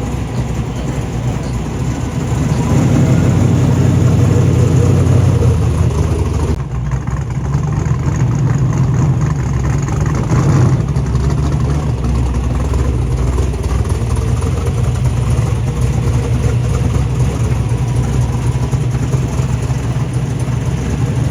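Muscle car engine running with a deep rumble, growing louder about two and a half seconds in, with a sudden drop in level about six and a half seconds in.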